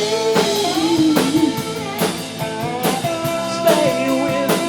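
Rock band playing a song live: drum kit and guitar, with held, bending melody notes over the drum hits.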